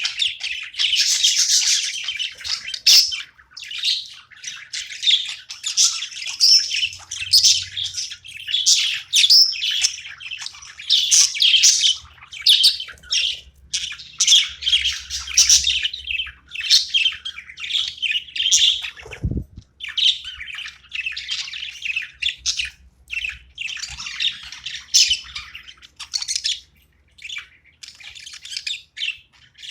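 Pet budgerigars chattering: a rapid, continuous stream of high chirps and warbles mixed with sharper squawks.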